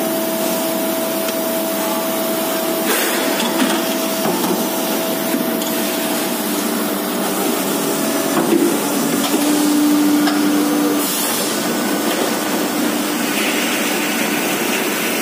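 Steady machinery din on a factory floor: a continuous hiss-like noise with a faint steady hum, which grows a little louder about nine to eleven seconds in, and a few brief clatters.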